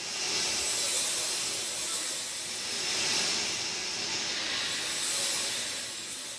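Steady rain falling, an even hiss that swells and eases in slow waves every two to three seconds.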